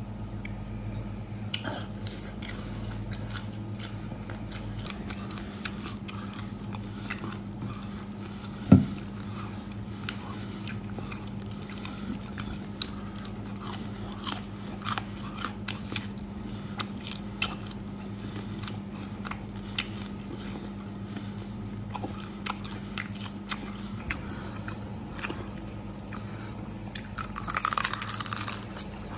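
Close-up chewing and crunching of crispy roasted pork hock, with many small wet mouth clicks over a steady low hum. There is one sharp knock about nine seconds in, and a burst of crunching near the end as he bites into the hock's crackling skin.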